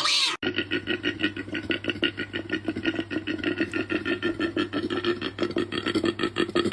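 An animal making a rapid, evenly pulsing, rattling call, with a steady low hum under it; it cuts in abruptly just under half a second in, after a brief different call.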